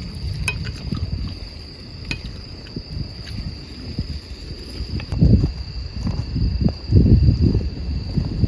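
Crickets trilling steadily, a constant high-pitched tone. A few sharp clicks come in the first seconds, and loud low rumbling swells come about five and seven seconds in.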